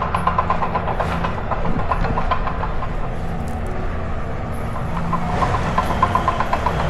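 Bulldozer running nearby: a steady diesel engine drone with runs of rapid metallic ticking, about a second in and again over the last couple of seconds.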